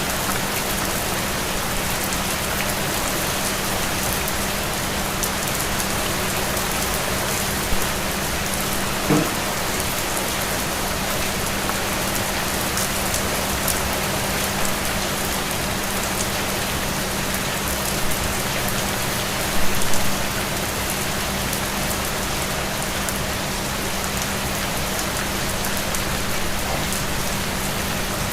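Steady rain falling on a surface, an even hiss of drops with a few brief louder taps scattered through, over a faint steady low hum.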